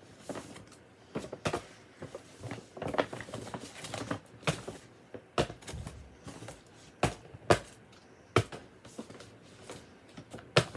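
Enamel pins and their packaging being handled and sorted by hand: irregular clicks, taps and rustles, with a few sharper knocks.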